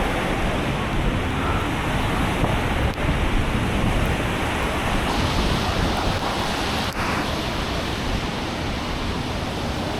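Strong storm wind buffeting the microphone: a loud, steady rushing noise.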